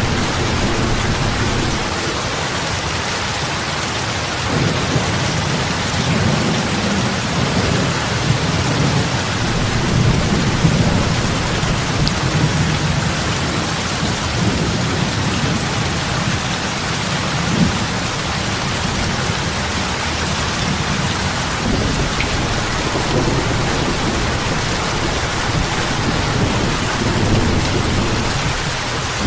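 Steady heavy rain falling on lake water, with a low rumble swelling and fading underneath it.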